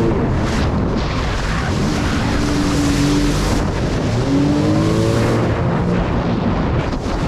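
Jet ski engine running under way, its pitch holding steady and then rising about halfway through, over the rush of wind and water spray.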